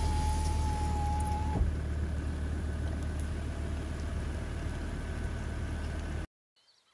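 Steady low rumble of a car running, heard from inside, with a steady high whine that stops about a second and a half in. The sound cuts off suddenly near the end, leaving faint bird calls.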